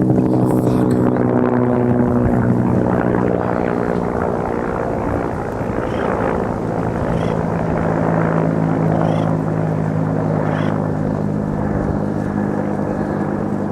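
Military helicopter flying low and close, its rotor and engine noise loud and steady. The pitch drops over the first couple of seconds as it passes, then holds level.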